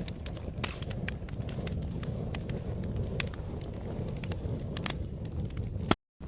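Wood fire crackling, with sharp irregular pops and snaps over a steady low rumble of the flames. Near the end the sound cuts out completely for a moment and comes back.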